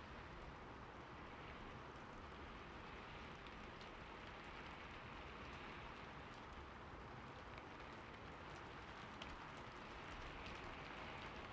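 Steady rain falling on a roof: a soft, even hiss dotted with small ticks of single drops.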